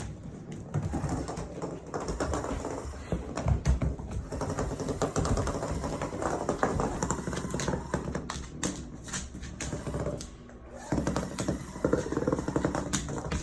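Puppies playing with a self-moving toy ball: rapid, irregular clicking and tapping with occasional louder knocks, dipping briefly shortly before the end.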